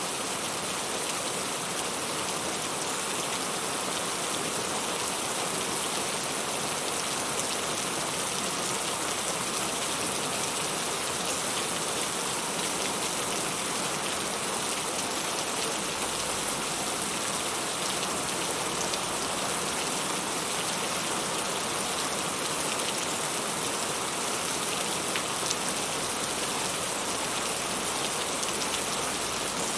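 Heavy rain falling hard and steady, a dense hiss of drops with small scattered ticks.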